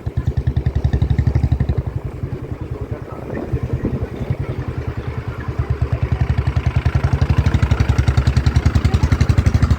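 Motorcycle engine running with an even, rapid pulsing exhaust beat, easing briefly about three seconds in and then growing louder as the bike picks up.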